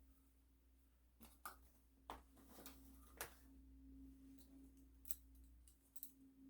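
Near silence: room tone with a steady low hum and a handful of faint clicks and taps.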